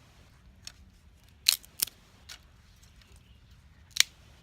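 Small dry twigs snapping by hand: a few separate sharp cracks, the loudest a pair about a second and a half in and another near the end.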